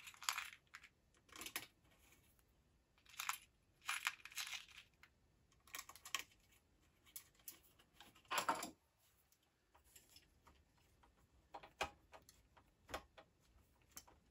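Small metal screws and parts clinking and rattling as they are picked from a parts dish and fitted onto a computer's chassis. Irregular short clicks come a second or two apart, the loudest about eight seconds in.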